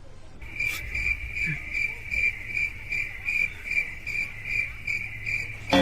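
Cricket chirping: a steady high chirp repeating evenly about two and a half times a second, cut off just before a sudden loud sound right at the end.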